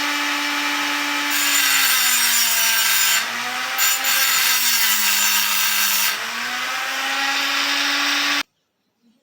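A small high-speed power tool running steadily against steel, its motor whine sagging in pitch under load through the middle and then picking back up, before cutting off suddenly near the end.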